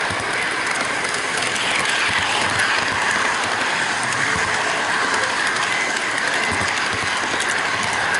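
HO-gauge model freight train running on its track, heard from a container car carrying the camera: a steady rolling rush of the wheels on the rails with faint clicks over the rail joints.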